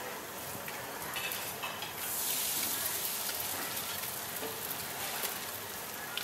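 Thin stretched pancake dough frying in hot oil on a flat round griddle: a steady sizzle that jumps louder about two seconds in, as the dough settles into the oil.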